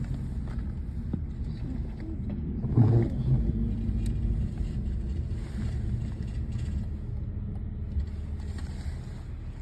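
Steady low rumble of a motor vehicle, like road noise heard inside a moving car, with a brief voice about three seconds in.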